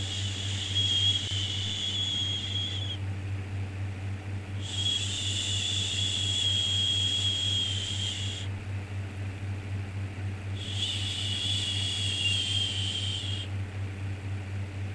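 A drawn-out 'shhh' shushing sound for soothing a baby, repeated about every six seconds in long hissing strokes of three to four seconds each. A steady low hum runs underneath.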